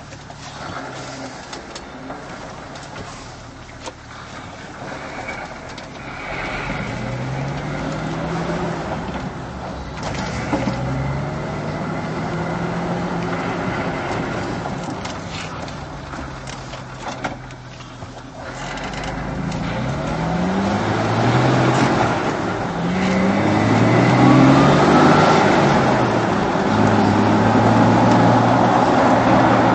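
Jeep Wrangler engine and exhaust accelerating, the note rising in pitch several times and dropping back between rises, like upshifts through the gears. It grows louder toward the end and settles into a steadier note for the last few seconds.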